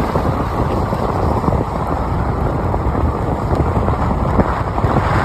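Steady low rumble of a car driving on rain-wet streets: road and tyre noise.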